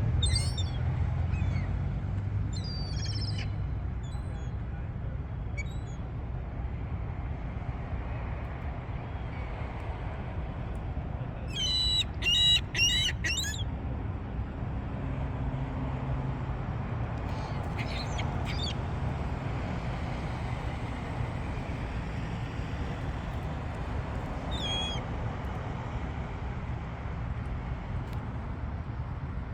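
Gulls calling now and then over a steady low rumble, with the loudest burst, a quick run of several calls, about twelve seconds in.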